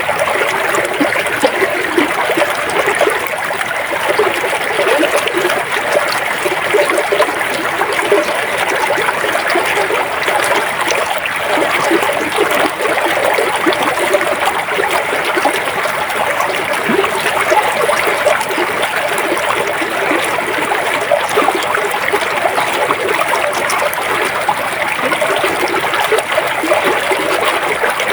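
A river or stream flowing over rocks, a steady rush of water with constant fine splashing and trickling.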